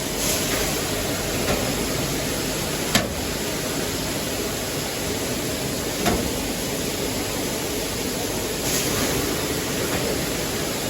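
Steady rushing noise, with sharp knocks about three seconds in and again about six seconds in.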